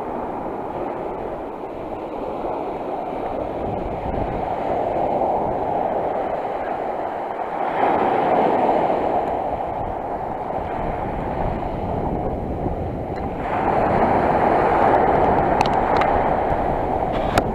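Sea surf rushing on the shore, with wind rumbling on the microphone. The surf swells up twice, about eight seconds in and again about halfway through the second half, and a few small clicks come near the end.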